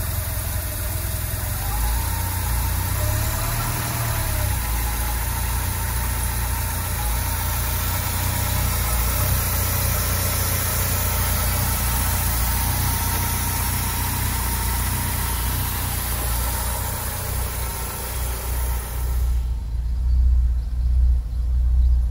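BMW 2002 Turbo's turbocharged 2.0-litre four-cylinder engine idling steadily just after a cold start. Near the end it is heard from inside the cabin, duller and lower, with the rumble swelling and easing.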